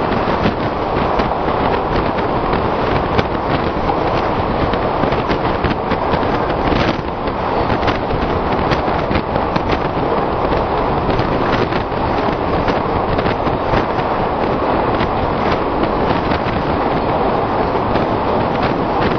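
An express train running on the track: a steady, loud rumble of wheels on rails with rapid rattling clicks all through.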